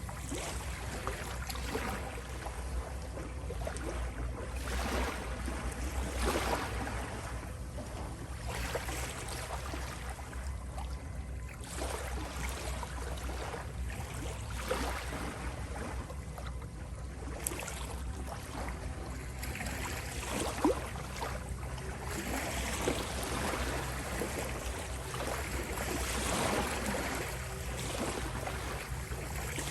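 Ocean waves washing in and breaking in irregular swells every few seconds, over a steady low drone.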